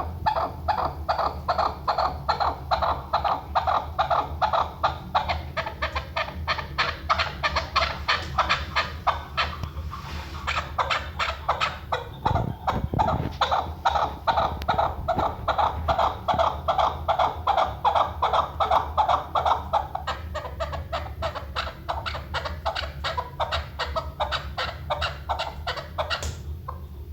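Chukar partridge calling: a long, rapid run of clucking chuk notes, about four a second, with a brief break around ten seconds in.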